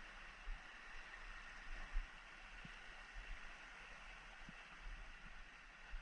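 Faint, steady rush of flowing stream water, with a few soft low thumps, the loudest about two seconds in.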